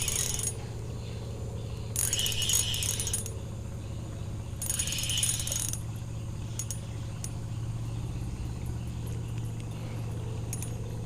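Fishing reel being cranked in three short bursts, a whirring, ratcheting sound, over a steady low hum.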